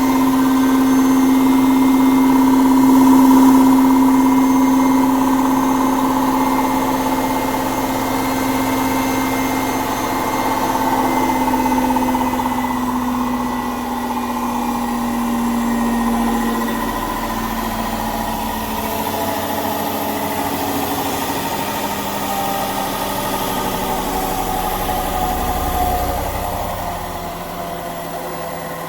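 Indesit 1400-spin washing machine spinning with its covers off: the motor, belt and drum make a steady whine and hum that slowly falls in pitch as the spin speed comes down, easing off in loudness near the end.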